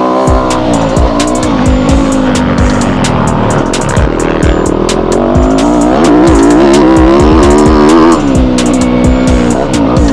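Yamaha YZ250F four-stroke single-cylinder dirt bike engine revving hard and backing off over and over on a motocross track, pitch rising and falling through the gears, loudest about six to eight seconds in. Background music with a steady beat plays underneath.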